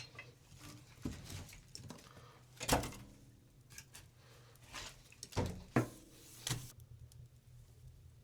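Scattered knocks and clatters of objects being handled, about half a dozen in eight seconds, with the loudest a little before halfway and a cluster of three past the middle, over a faint low hum.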